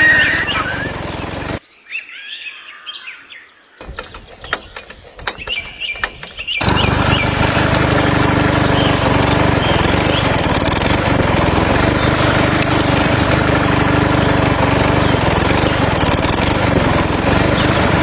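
Small single-cylinder diesel engine driving a water pump, running steadily. It stops about a second and a half in. During the quiet gap there are faint bird chirps, then scattered clicks, and from about six and a half seconds in the engine runs steadily again.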